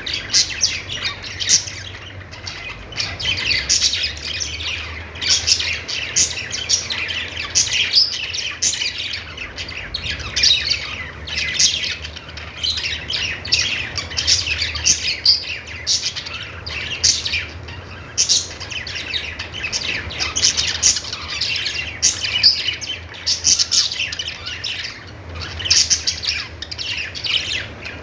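Several budgerigars chattering and warbling nonstop, a dense stream of short, quick high chirps that overlap one another.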